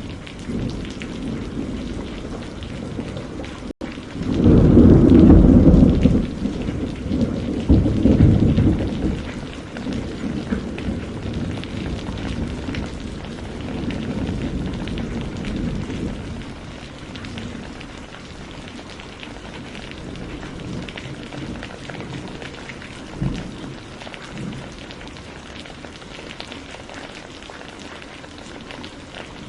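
Steady rain falling, with a thunderclap about four seconds in that rumbles on, swells again, and dies away over roughly ten seconds. The sound cuts out for an instant just before the thunder, and a faint low thump of distant thunder comes near the end.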